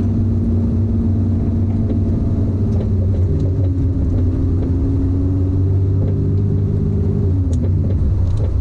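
Engine of a BMW drift car built to some 700–800 hp, heard from inside its stripped, caged cabin, running steadily without revving.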